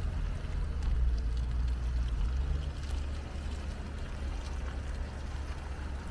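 A car driving: a steady low engine and road rumble, loudest about a second in and easing off slightly after.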